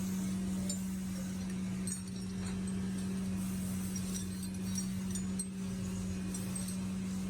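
A workshop machine's electric motor holds a steady hum, with light metallic clinks of small metal parts scattered through it.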